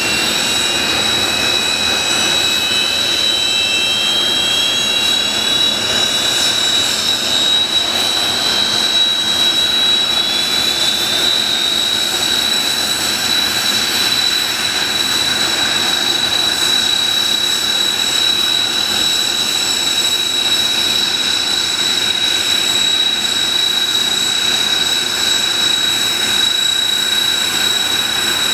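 Kawasaki T-4 jet turbofan engines spooling up after start: a high whine rises for about the first third and then holds steady at idle, over a constant jet roar.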